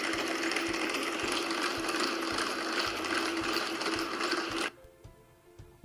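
Pack of Boston Dynamics Spot robot dogs hauling a truck: rapid mechanical clicking and whirring with a steady hum underneath. It cuts off suddenly about three-quarters of the way through.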